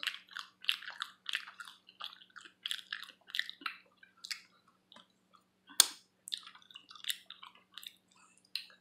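Close-up chewing and lip-smacking while eating sauced buffalo wings: irregular wet smacks, with one sharper click about six seconds in.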